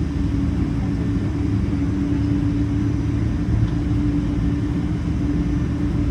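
Steady Boeing 777-300 cabin noise: the engines and airflow make an even drone with a steady low hum.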